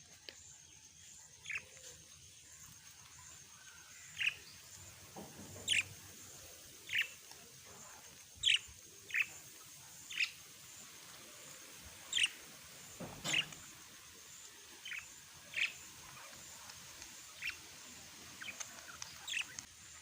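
Small pet parrots giving short, sharp chirps, about a dozen or more spaced irregularly around a second apart, over a faint steady high-pitched whine.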